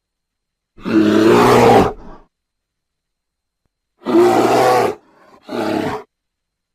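Layered creature roar sound effect for a sabre-toothed bear, mixed from bear and big-cat roars: one long roar about a second in, then two shorter roars close together near the end, with dead silence between.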